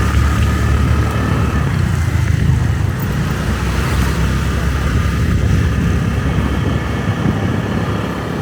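Motorbike engine running steadily on the move, under a heavy, continuous low rumble.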